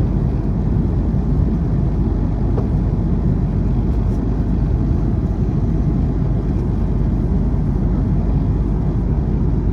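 Steady low rumble and hiss of a moving vehicle heard from inside, unchanging throughout.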